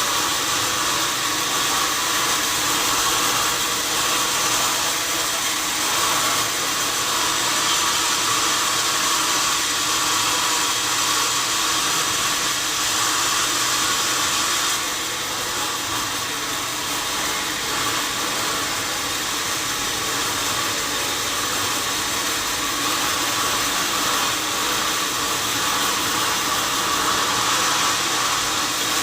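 Sawmill saw running steadily through wadang wood: a continuous whirring hiss with one held tone, easing a little in level about halfway through.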